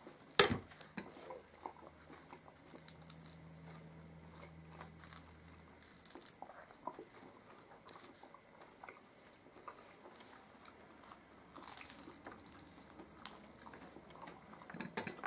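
Quiet chewing and biting into flaky puff pastries with cottage-cheese filling, with small crackles of pastry throughout and one sharp knock about half a second in.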